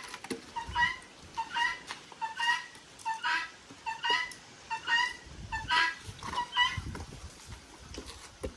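Domestic fowl calling over and over: a two-note call, a short note then a longer one, repeated in a steady rhythm about every second, with some low knocks underneath near the end.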